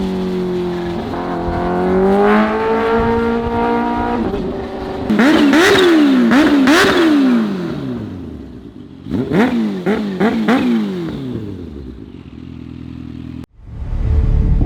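Kawasaki H2's supercharged inline-four revving. The pitch sags, then climbs over the first few seconds, followed by two bursts of quick throttle blips, about four sharp rises and falls in each, before the engine note dies away.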